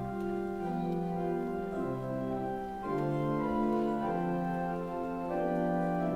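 Organ music: sustained chords held steady, moving to a new chord about every second.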